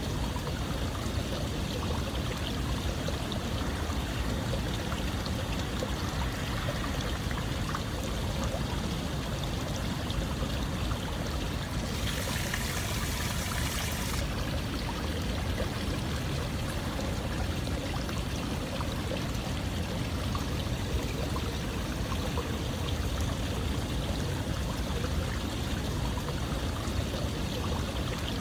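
Running water flowing steadily, an even rush like a stream. About halfway through, a brighter, hissier stretch lasts about two seconds.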